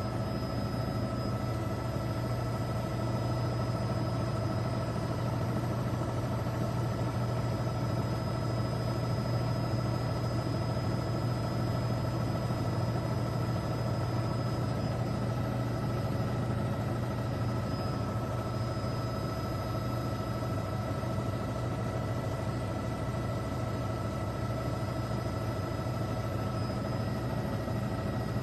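Steady drone of an aircraft's engines heard from inside the cabin, a low hum with several thin whining tones held level throughout.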